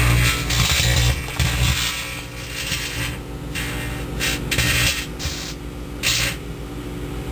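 Microwave oven running with a steady hum while the tin foil wrapped around a card arcs inside it, giving irregular bursts of crackling and buzzing that start and stop.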